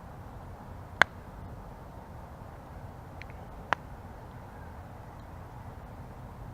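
Campfire burning with a low, steady rush, broken by one sharp, loud pop of burning wood about a second in. A fainter crackle follows near the middle, then a smaller pop.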